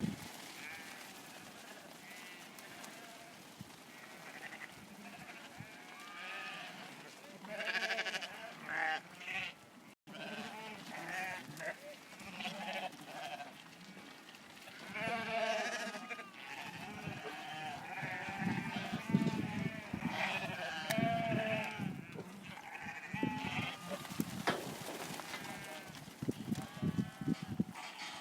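A flock of sheep bleating, many calls overlapping one another throughout.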